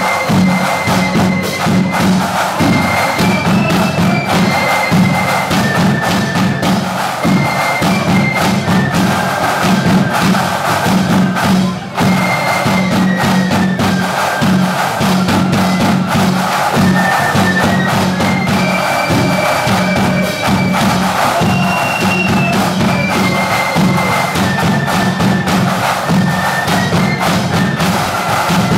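Marching flute band playing a tune, the high flute melody moving in steps over continuous snare and bass drumming, with a brief dip about halfway through before the tune carries on.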